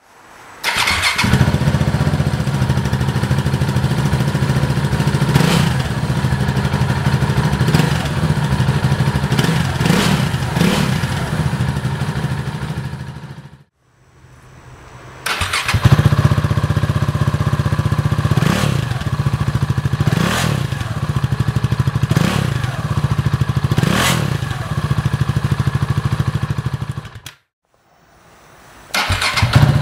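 KTM 690 Duke's single-cylinder engine running through a Remus underfloor exhaust with the original dB killers, idling loudly with repeated short throttle blips. The sound cuts out twice, briefly, before picking up again.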